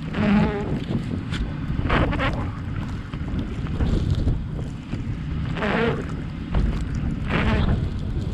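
Car driving through heavy snow: a steady low rumble of road and wind noise, with a short buzzing squeak from the windshield wipers about every two seconds as they sweep the glass.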